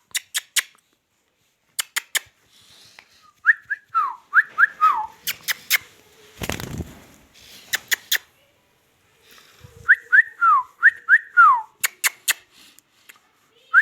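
Two short phrases of clear whistling, each a quick run of rising and falling notes. Sharp clicks come between the phrases, and there is a brief rush of noise in the middle.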